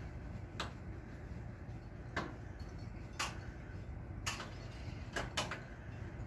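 About six short, sharp clicks or knocks at irregular intervals, two of them close together near the end, over a steady low rumble.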